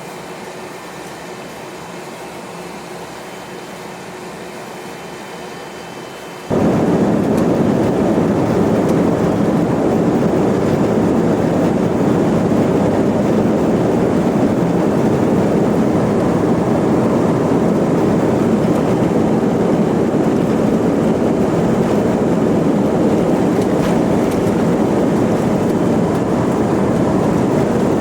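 Airbus A320 cabin heard from a seat: a steady ventilation hum with faint whining tones, then about six seconds in a sudden jump to a loud, steady jet-engine and airflow roar.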